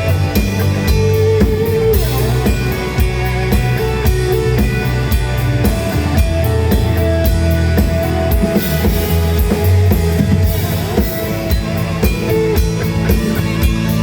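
Rock band playing live, a drum kit keeping a steady beat under electric guitar.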